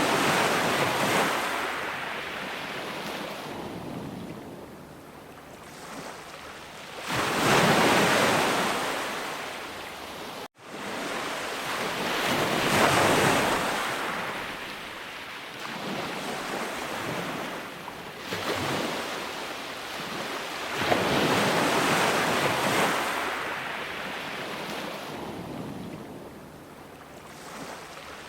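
Ocean surf: waves breaking and washing in swells that rise and fall every few seconds, with a momentary dropout about a third of the way in.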